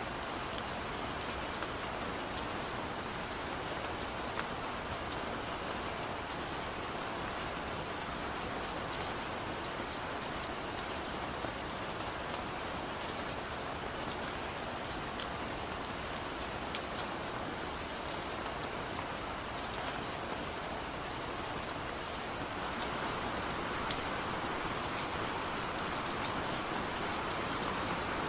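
Steady rain falling, a dense hiss with scattered individual drops ticking on a surface, growing slightly heavier near the end.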